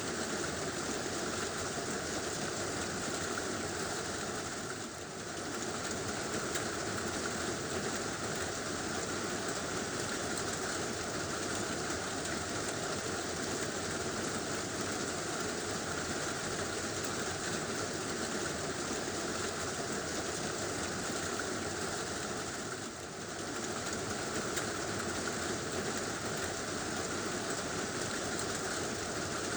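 Heavy rain falling steadily on a tin roof, a dense unbroken hiss and patter, dipping briefly in level about five seconds in and again near twenty-three seconds.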